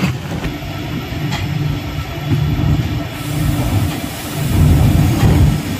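Passenger train running along the track: a steady low rumble of the wheels and coach.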